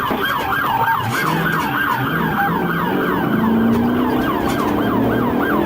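Police car siren on its yelp setting, a fast tone sweeping up and down about four times a second, over the running car's engine and road noise.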